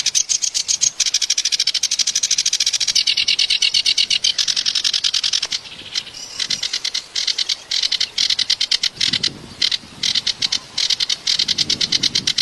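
A kerak basi reed warbler sings a fast, harsh chatter of rapidly repeated notes, broken by a short pause about halfway through and then in choppier phrases. A faint low rush of running water sits under the song in the second half.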